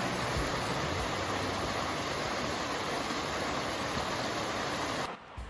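Steady, even rushing noise that cuts off suddenly about five seconds in.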